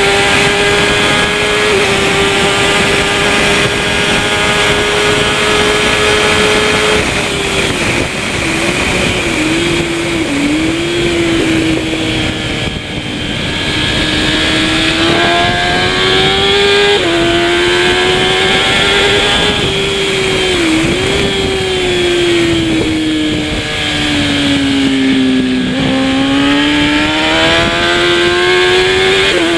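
Kawasaki ZX-10R superbike's inline-four engine at racing revs. It holds high on a long pull, then its pitch drops sharply at gear changes, wobbles and falls as it slows, and climbs again under hard acceleration. A steady rush of wind noise runs underneath.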